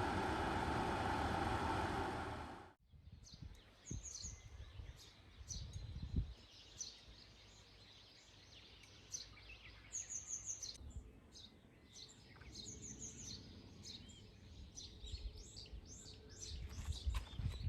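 Steady vehicle running noise that cuts off abruptly about three seconds in. Small birds then chirp repeatedly, in short high calls, over a faint low rumble.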